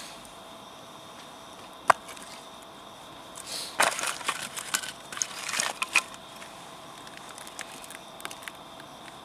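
Dry wood snapping: one sharp crack about two seconds in, then a few seconds of crackling and splintering snaps that stop just after the middle.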